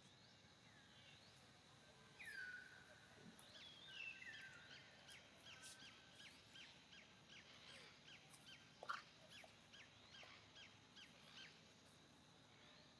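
Faint outdoor birdsong: a few falling whistles, then a quick run of short chirps about three a second. One louder rising squeak comes about nine seconds in.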